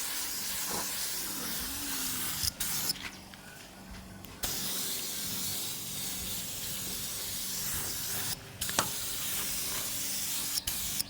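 Compressed-air paint spray gun hissing as paint is sprayed, cutting off when the trigger is released: a short break about two and a half seconds in, a longer pause of about a second and a half just after, and brief breaks near 8.5 s and near the end.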